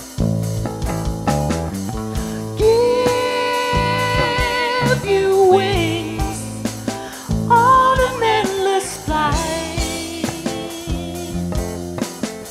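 Live acoustic band music, an instrumental passage between sung verses. A plucked guitar-like accompaniment plays under a melody line that holds long notes with vibrato, twice.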